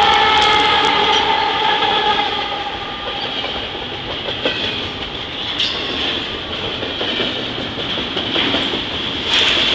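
Train passing close by: a steady whine with several tones during the first two seconds or so, loudest at the start, then the cars rolling past with a noisy rumble and scattered clicks and clatter from the wheels on the rails.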